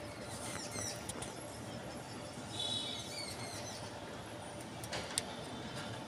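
High-pitched bird chirps and squeaks, a quick run of them about half a second in and again around the middle, with a short held whistle among the second group, and a couple of sharp clicks near the end.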